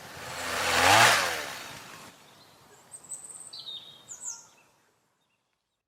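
A whoosh that swells and fades with a dropping pitch, like something passing by, loudest about a second in; then a few short, high bird chirps, then silence.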